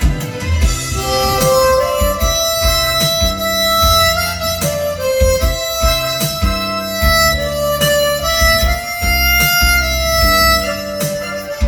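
Diatonic harmonica playing a trot melody in long held notes, over a backing track with a steady low bass beat.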